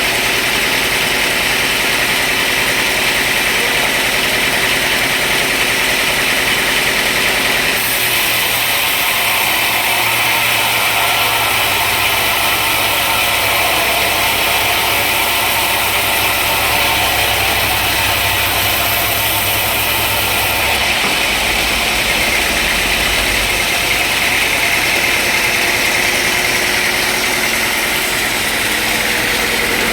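Engine-driven sawmill machinery running steadily. A deeper hum joins about a quarter of the way in and cuts off suddenly about two-thirds of the way through.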